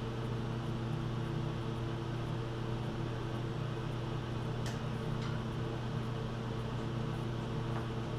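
A steady low mechanical hum that holds one pitch throughout, with two faint clicks about halfway through.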